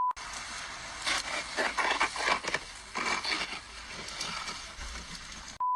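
Irregular scraping and rustling with no speech, between a short steady beep at the start and another near the end.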